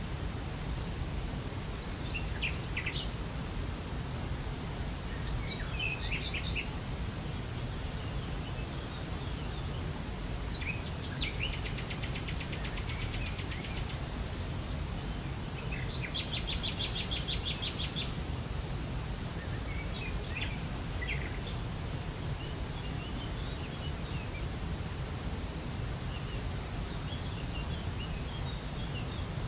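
Steady rush of a waterfall with songbirds calling over it: scattered chirps, and two rapid trills of evenly repeated notes, one about 11 seconds in and one about 16 seconds in.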